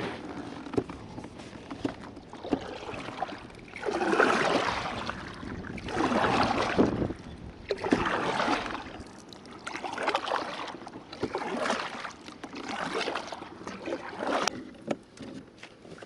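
Kayak paddle strokes in the water, a swishing splash about every one and a half to two seconds, fading out near the end as the kayak glides.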